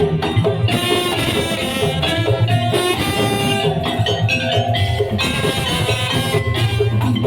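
Madurese daul (tong-tong) percussion ensemble playing: drums and percussion keep a steady beat under a pitched melody.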